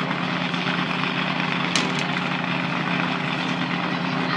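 Monster truck engine idling steadily, a deep even hum waiting before its run.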